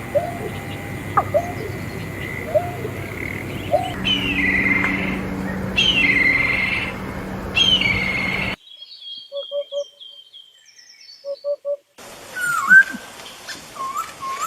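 Songbirds calling and chirping in a string of separate recordings cut together, with the bird and background changing abruptly about 4, 8½ and 12 seconds in. The birds give short repeated whistled notes, mostly rising slurs, and one stretch has quick little series of notes over near silence.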